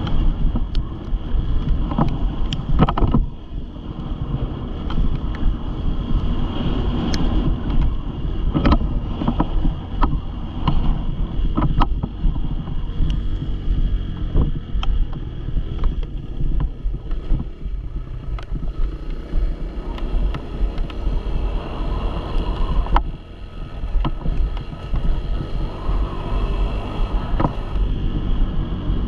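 Dirt bike engine running, with heavy wind noise on the microphone and scattered knocks; it drops off briefly near the end before picking up again.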